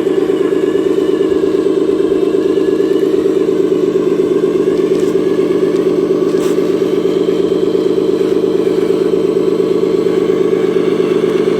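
A mini truck's small engine running steadily at an even speed, with a fast, regular pulse.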